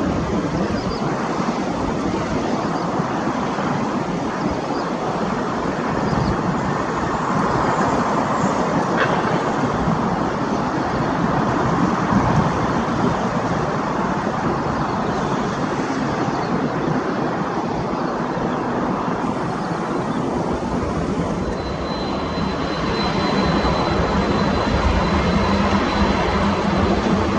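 Jet airliner engine noise: a steady loud rush, joined about 22 seconds in by a thin high engine whine and a deeper hum as another jet draws near.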